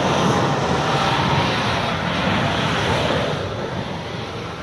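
A 4x4's engine revving hard under load as the vehicle pulls away, running loud for a few seconds and then fading near the end.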